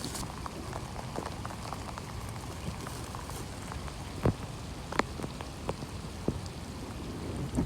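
Steady rain falling, with scattered raindrops tapping close by; a couple of louder drop taps about four and five seconds in.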